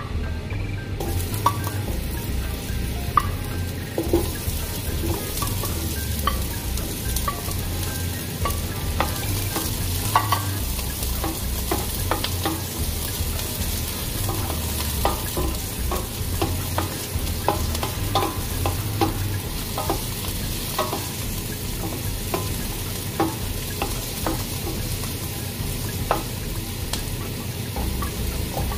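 Udon noodles frying with a steady sizzle in a stainless steel sauté pan, stirred with a wooden spoon that taps and scrapes against the pan many times.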